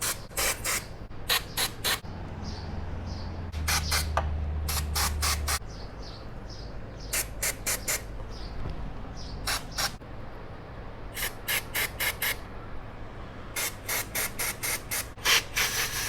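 Aerosol can of contact cleaner sprayed in many short squirts, a few quick hisses at a time with pauses between the groups.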